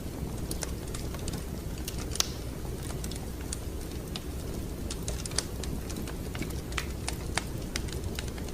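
Wood fire crackling in a fireplace: irregular sharp snaps and pops over a steady low rumble, with one louder pop about two seconds in.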